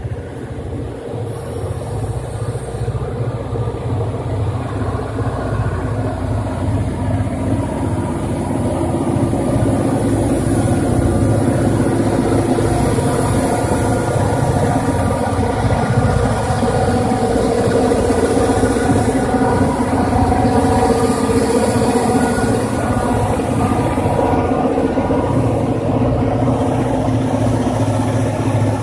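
Vermont Railway diesel freight train passing, its locomotive engines' drone and the train's low rumble growing over the first ten seconds, then holding steady and loud.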